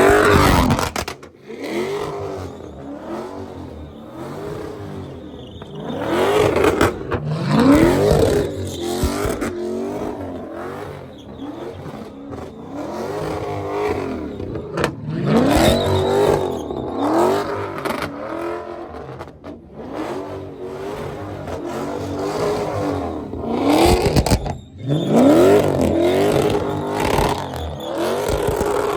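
Car engine revved hard again and again, its pitch climbing in repeated rising sweeps, in three louder spells about 6, 15 and 24 seconds in, as cars are driven at a legal burnout pit.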